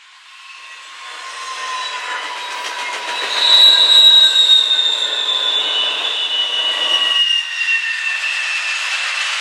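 Train wheels squealing against the rail as a train rolls past, several high-pitched squeals sliding slowly down in pitch over the rumble of the cars. The squealing builds and is loudest about three to four seconds in.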